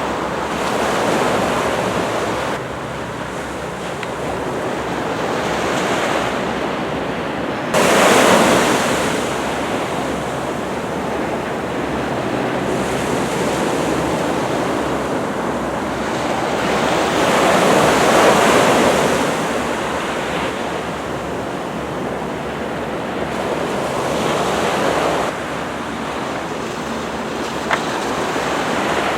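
Ocean surf breaking along the shore: a steady wash of small, ordinary waves that swells and eases, loudest about eight seconds in and again around eighteen seconds.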